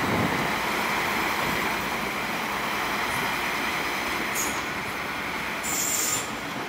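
Transport for Wales Class 197 diesel multiple unit moving along the tracks with a steady rumble. Two short high-pitched squeals come about four and a half and six seconds in.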